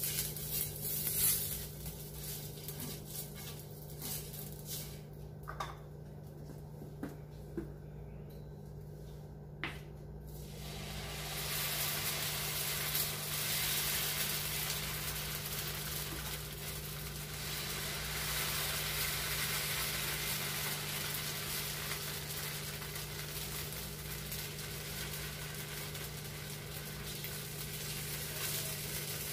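Dosa batter sizzling on a hot flat pan, a steady hiss that rises about eleven seconds in and holds. Before it come a few light scrapes and taps of a spatula on the pan, over a steady low hum.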